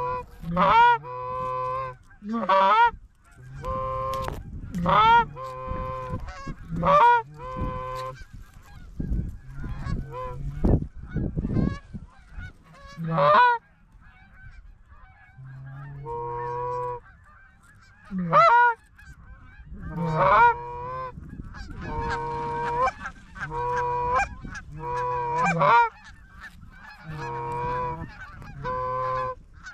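Geese honking and clucking in quick repeated series, with a stretch of low rumble about nine to twelve seconds in.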